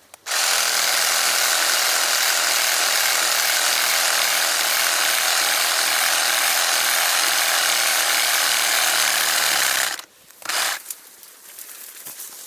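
Electric reciprocating saw cutting through garden-tree wood, running steadily for about ten seconds before stopping suddenly. A brief second burst of the saw follows.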